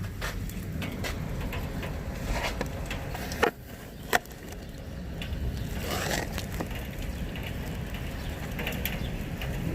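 Rain falling in a thunderstorm over a steady low rumble, with scattered light ticks. Two sharp knocks, about three and a half and four seconds in, are the loudest sounds.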